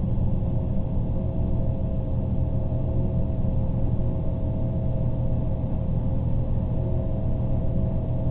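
Steady low rumble of a train running at speed, heard from inside the passenger car, with a faint, even two-note hum above it.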